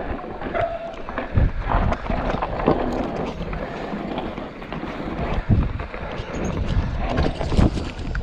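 Mountain bike ridden downhill over rough ground: wind rumbling on the microphone, with irregular knocks and rattles as the bike hits bumps.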